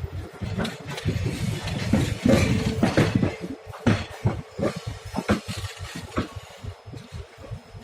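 Moving train: a low rumble with a quick, irregular series of metallic clanks and knocks.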